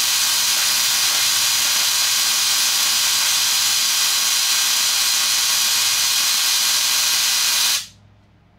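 Spark-gap Tesla coil firing during a tuning test of its primary tap: a loud, steady hissing crackle of the spark gap and discharge. It cuts off suddenly near the end.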